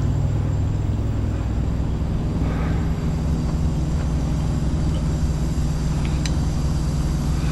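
A diesel truck engine idling with a steady low hum, with a faint rustle a few seconds in and a couple of small clicks near the end.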